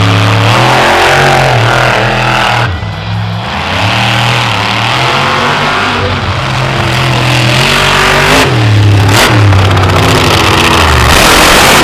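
Monster truck engine revving hard, its pitch climbing and falling again and again as the truck is driven, with a brief lull in the revs about three seconds in.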